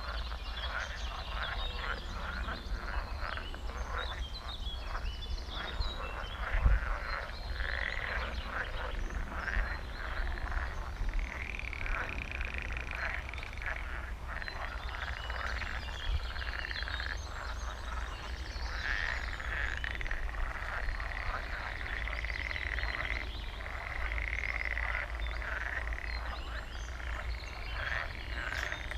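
A dense chorus of frogs croaking, many calls overlapping in rapid pulsing trains, with longer drawn-out trills standing out now and then.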